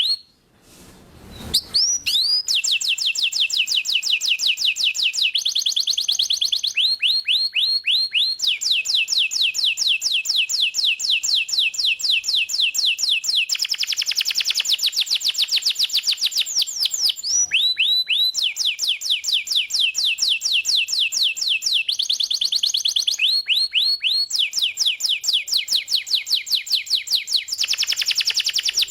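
Domestic canary singing a long, loud song of rapid trills. Each phrase is a fast run of identical, quickly repeated downward-sweeping notes, and the bird switches to a new phrase every second or two, pausing only briefly about a second in.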